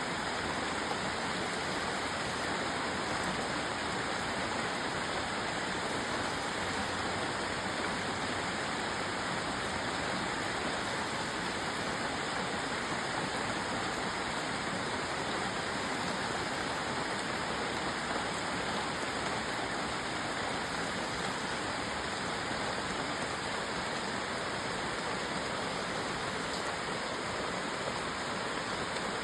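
Steady heavy rain: an even, unbroken rushing hiss with no separate drops or pauses.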